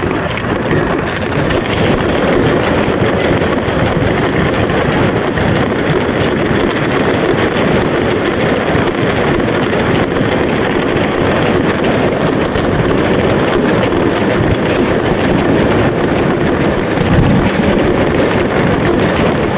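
Fireworks going off in a dense, steady barrage of overlapping bangs and crackle.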